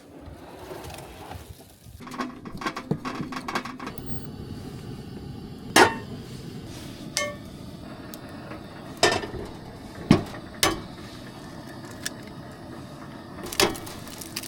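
Items being handled and set down: a string of separate knocks and clinks, about six of them, a couple with a short ringing tone, as of hard containers or cookware knocking together.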